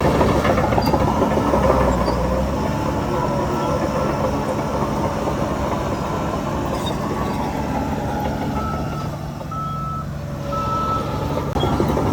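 Heavy diesel earthmoving machinery running with a back-up alarm sounding a string of evenly spaced high beeps, about one a second, as it reverses. The engine's rumble eases briefly just past the middle and picks up again near the end.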